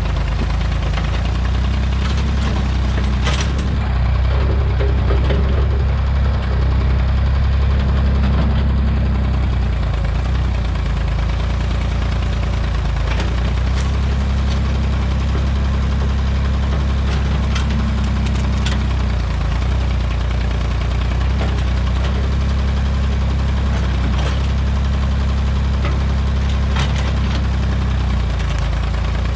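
Massey Ferguson backhoe's engine running steadily at a near-constant speed, with a few light clicks over it.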